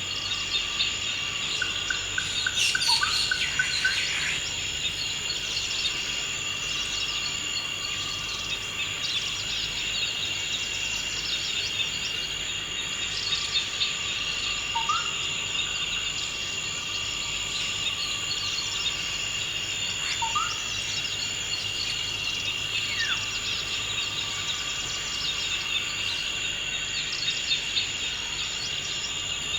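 Forest ambience: a steady, high-pitched insect chorus runs throughout. Occasional short bird calls sound over it: a quick run of repeated notes a couple of seconds in, then single brief rising chirps around the middle and later.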